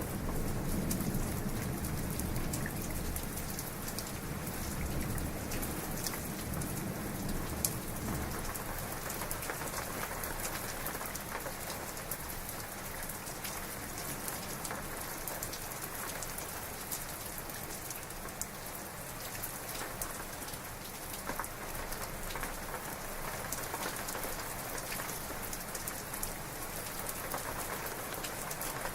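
Heavy rain falling steadily, with many distinct drop ticks. The tail of a low thunder rumble dies away over the first several seconds.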